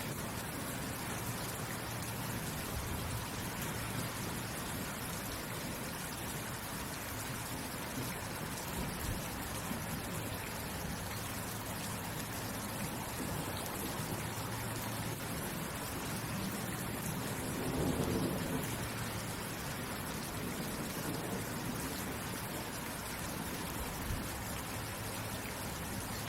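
Steady rain falling, an even hiss of drops. About two-thirds of the way through, a low rumble swells briefly and then fades.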